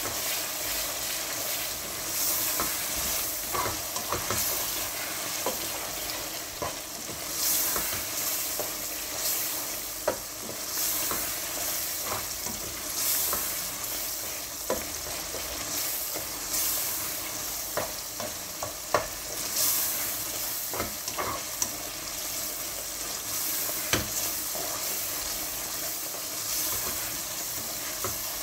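Tomato masala with whole spices sizzling in oil in a steel pot as it is sautéed (bhuna), a spatula stirring and scraping through it. The sizzle swells with each stroke every second or two, with occasional light clicks of the spatula against the pot.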